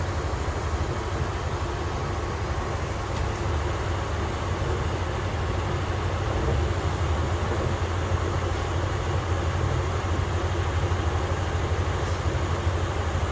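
Train running steadily: a constant low rumble with even noise over it and no change in pace.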